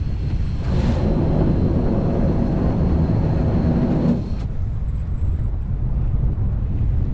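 Fishing boat's engine running with a steady low rumble and wind buffeting the microphone; a louder mechanical whirr joins in about a second in and cuts off after about three seconds.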